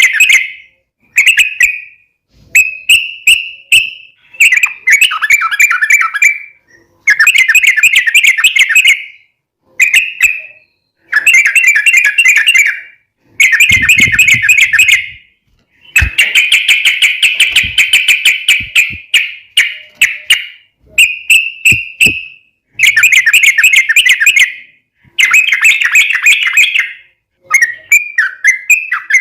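Yellow-vented bulbul (trucukan) singing loudly in long, rapid, bubbling phrases. Each phrase runs about one to two seconds, with one of about four seconds midway, and short pauses between them.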